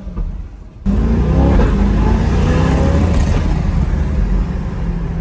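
Chevrolet C8 Corvette's V8 engine jumping suddenly to full throttle about a second in, then running loud and climbing in pitch as the car accelerates hard.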